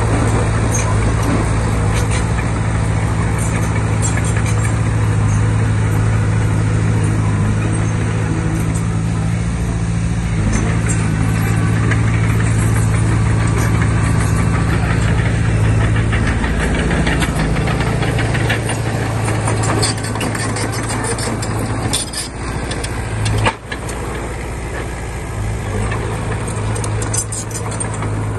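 Komatsu D20P bulldozer's diesel engine running steadily, with scattered metallic clanks and rattles. The engine note drops and changes about two-thirds of the way through.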